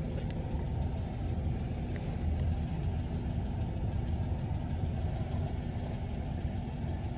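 Car engine idling: a steady low rumble with a faint even hum.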